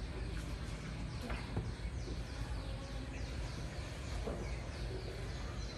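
A bird chirping outside: a quick run of short falling chirps, a few each second, over a low steady rumble of room noise.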